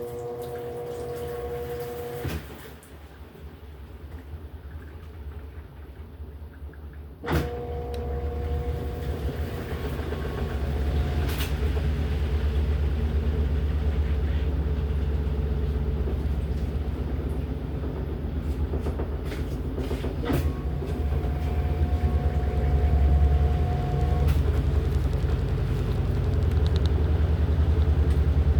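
LG top-loading washing machine's motor running with a low rumble and a steady whine. It stops about two seconds in, starts again with a click about seven seconds in, and grows slowly louder.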